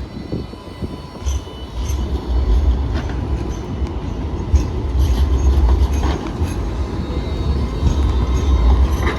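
Light rail tram running along the street tracks: a continuous low rumble with brief high-pitched wheel squeals and scattered clicks.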